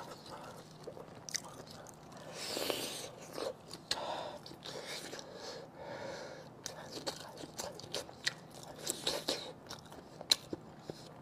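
Close-miked chewing of a sauce-coated pork intestine stuffed with pig brain: wet mouth smacks and irregular small clicks, with a short breathy sound about two and a half seconds in.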